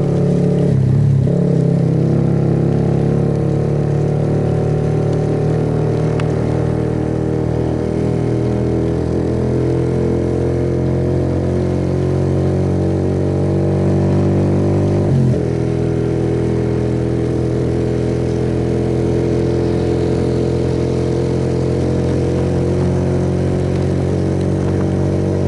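Suzuki Yes motorcycle's single-cylinder four-stroke engine idling steadily while stopped in traffic, with one short knock about fifteen seconds in.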